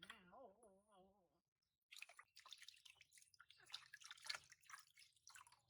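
A short wavering, pitched cry, then from about two seconds in, water dripping and lightly splashing in irregular small clicks, as a baby monkey is bathed.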